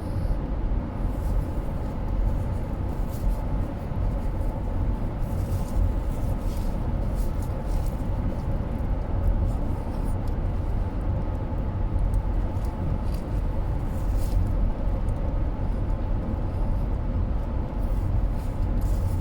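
Steady road and engine rumble heard from inside a moving car's cabin, with faint short clicks scattered through it.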